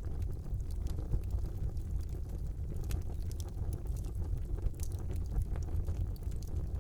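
Fire burning in a fireplace: a steady low rumble of flames with scattered sharp crackles and pops, several of them about three and five seconds in.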